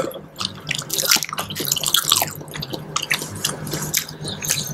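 Close-miked wet chewing and mouth sounds of people eating seblak, soft noodles and meatballs in a spicy broth: a dense string of quick moist clicks.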